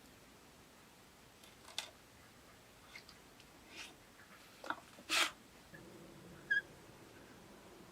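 Sparse light clicks and taps, with a sharper crack about five seconds in; shortly after, a faint low steady hum starts and a brief high chirp sounds once.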